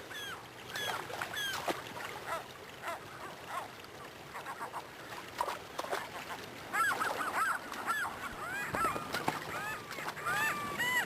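A flock of birds calling, many short calls that rise and fall in pitch. They are scattered at first and come thick and overlapping from about seven seconds in.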